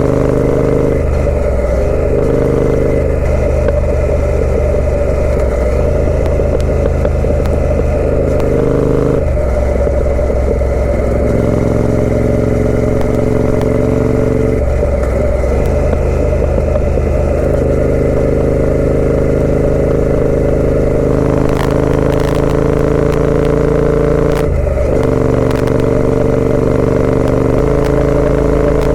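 Triumph Speed Twin 900's parallel-twin engine through a British Customs aftermarket exhaust, running under way on the road. Its note holds steady for a few seconds at a time and shifts to a new pitch several times.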